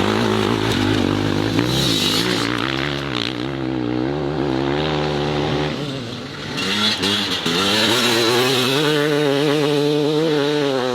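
Motorcycle engine running with the revs rising and falling unevenly. It eases off and dips about six seconds in, then picks up again.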